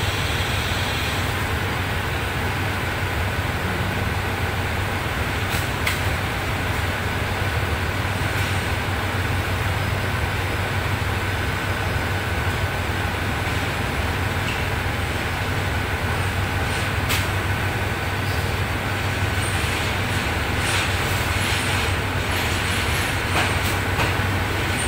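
Diesel-hauled passenger train being backed slowly into a platform: a steady low engine hum, with a few wheel clicks and squeaks near the end as the coaches roll past.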